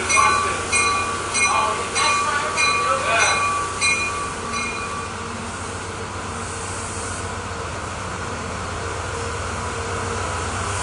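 Shoreline East push-pull train pulling out, with ex-Amtrak P40DC diesel locomotive 843 running at the rear. A bell rings about twice a second and stops about five seconds in, leaving the steady rumble of the departing train.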